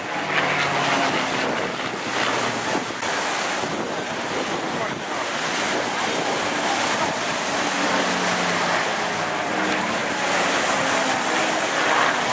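Piston aircraft engines of the Battle of Britain Memorial Flight, Rolls-Royce Merlins, droning and shifting slightly in pitch as the aircraft pass, under a steady rush of wind on the microphone.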